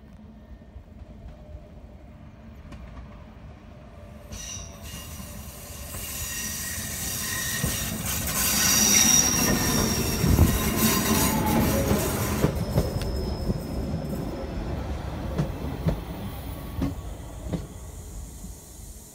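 SBB RBDe 560 Domino electric multiple unit approaching and running past close by, its wheels squealing with thin high tones. It grows louder from about four seconds in, is loudest about halfway through as the cars go by, then fades.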